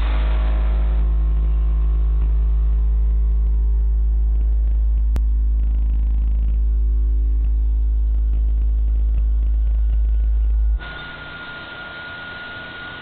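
Two 18-inch car subwoofers in a custom enclosure playing a single very loud, steady deep bass tone for a dB drag run measured at 150.9 dB. The tone cuts off suddenly about eleven seconds in, leaving a hiss with a faint steady high whine.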